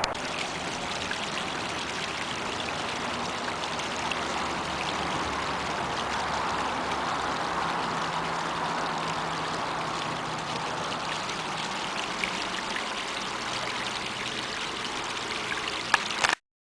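Small rain-fed waterfall splashing and rushing steadily down a rocky hillside. A couple of clicks come near the end, and then the sound cuts off suddenly.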